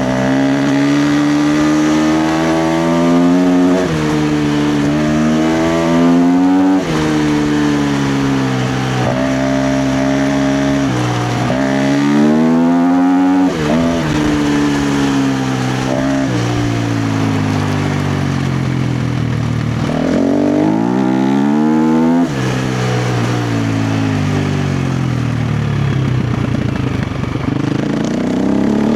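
KTM 350 XC-F's single-cylinder four-stroke engine being ridden hard, its pitch climbing under throttle and dropping back sharply over and over, every few seconds.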